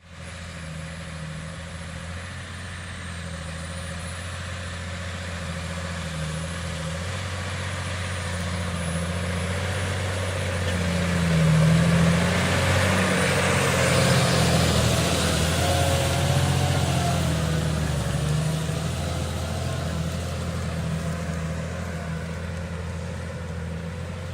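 Challenger MT665D tractor's diesel engine running steadily under load while plowing. It grows louder to a peak about halfway through, then slowly fades.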